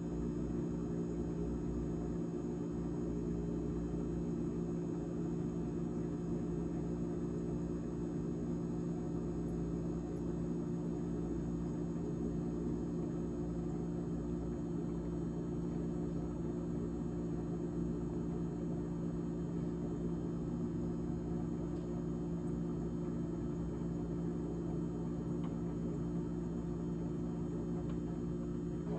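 GE GTH18XCTZRBB refrigerator's fan running with a loud, steady drone of several humming tones: the fan making loud noise that calls for cleaning.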